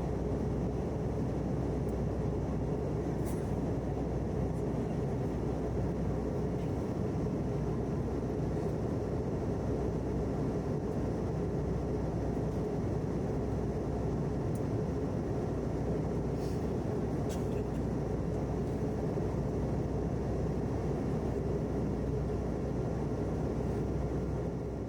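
Airbus A321 cabin noise in flight: a steady drone of engines and airflow, with a faint steady hum and a few light ticks.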